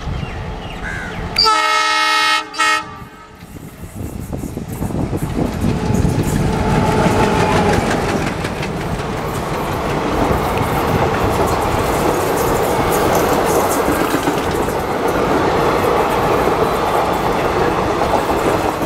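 WDM-3A diesel locomotive sounding its horn as it approaches, one long blast followed by a short one. About four seconds in, the locomotive and its train of passenger coaches start running past with a steady, loud rumble and the clatter of wheels on the rails.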